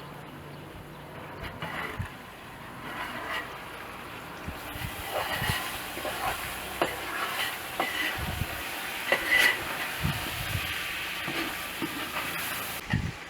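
Potatoes frying in a pan over a wood fire, a sizzle that grows about four seconds in, with a utensil stirring and knocking against the pan now and then.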